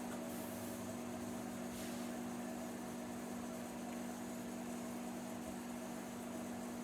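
Microwave oven running with a steady electrical hum and fan noise while it heats sliced potatoes.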